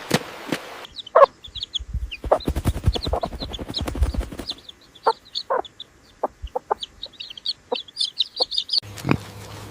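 Chickens clucking, with many short high peeps.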